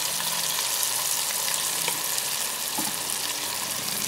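Chicken and masala sizzling steadily in hot oil in the pot, with yogurt just stirred in to cook down. There are a couple of faint clicks about two and three seconds in.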